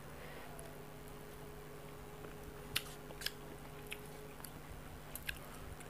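Quiet chewing while eating parshe fish curry and rice by hand, with several sharp mouth smacks or clicks in the second half, over a faint steady hum.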